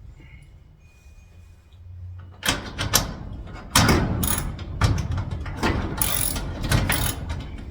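Irregular metallic clicking and scraping of a screw being backed out of a door-lock mounting with a hand tool, starting about two and a half seconds in.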